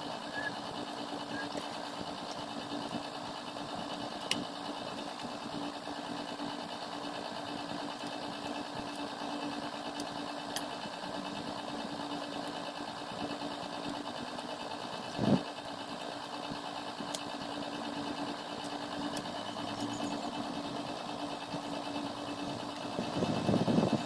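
Steady machine hum with a constant low tone, a few faint clicks and one short knock about fifteen seconds in; handling noises grow louder near the end.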